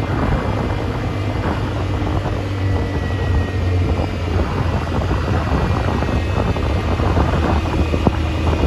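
ATV engine running steadily under way, with a constant low drone and rough rumble, and wind buffeting the microphone.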